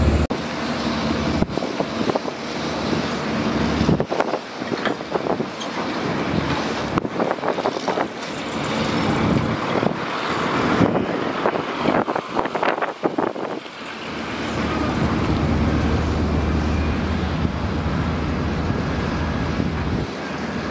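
Diesel engine of a heavy earthmoving machine running, with a string of sharp knocks and clanks in the middle stretch before the low engine drone returns near the end.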